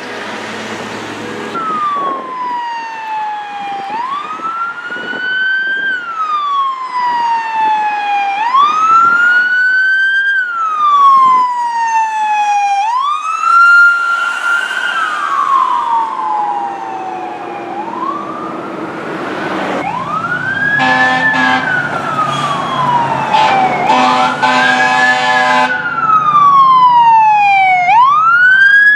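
Fire truck responding with its siren on wail, each cycle rising quickly and falling slowly, about every four seconds. From about two-thirds of the way through, pulsed horn blasts sound over the siren.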